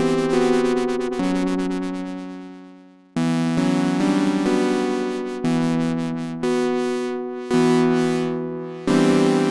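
Sequential OB-6 analog polyphonic synthesizer playing a 'fifth-ish' patch with no effects, its oscillators voiced roughly a fifth apart. Chords are struck about once a second. Each one starts bright and dulls as it decays, the filter closing over the note. One chord rings out for about three seconds before the next comes in.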